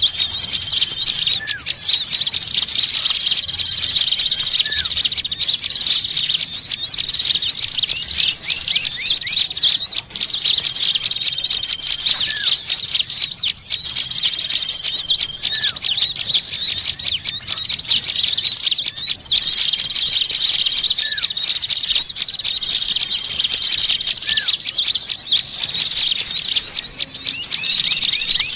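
A dense chorus of many small birds, chirping and twittering rapidly with no pause. A few lower, short upward-flicking notes stand out now and then. This is the kind of noisy small-bird recording played as a pikat lure to draw birds in.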